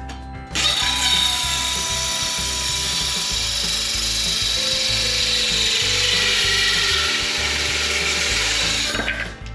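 Circular saw cutting through wood: it starts suddenly about half a second in, runs steadily for about eight seconds with its pitch sagging a little under load, and stops near the end.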